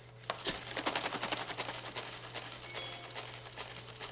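A canvas of freshly poured acrylic paint spun on a turntable: a rapid, irregular patter of clicks and ticks that starts just after the beginning.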